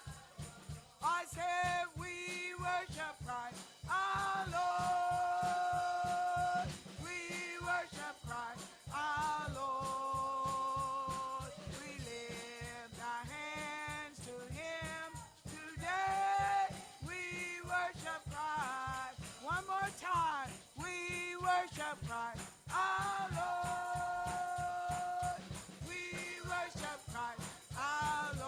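Gospel worship music: a sung melody with held, sliding notes over a steady drum beat.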